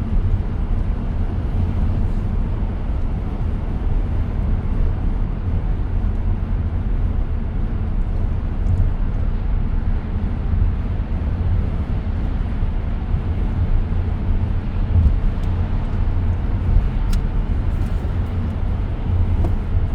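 Steady road and tyre noise inside the cabin of a 2023 Tesla Model X while it is driving, mostly a deep even rumble with no engine note.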